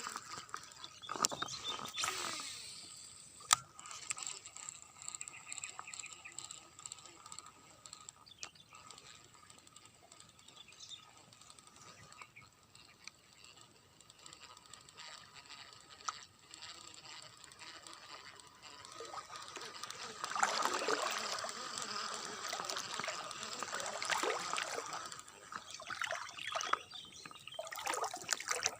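Water splashing and sloshing in irregular short spells, loudest about two-thirds of the way in, over a faint steady high whine.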